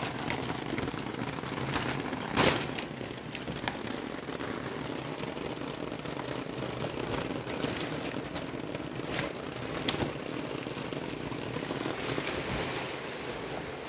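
Steady typhoon rain, with scattered sharp taps and drips and one louder knock about two and a half seconds in.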